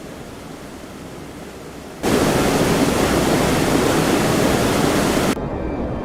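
Typhoon wind and rain making a steady rushing noise. About two seconds in it jumps suddenly to a much louder, full-range rush, then cuts off just after five seconds to a duller rush.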